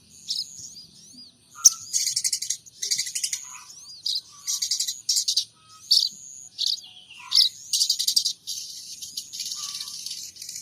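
A sogon trotol songbird singing: short bursts of rapid, buzzy trills alternate with quick rising and falling chirps, and a steady high trill runs near the end. The song is in the mimicking style the bird is kept for, with sparrow- and munia-like calls.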